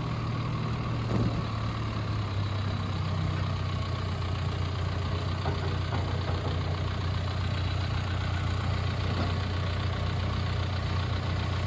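John Deere 310SK backhoe's four-cylinder diesel engine idling steadily, its note dropping slightly about two seconds in.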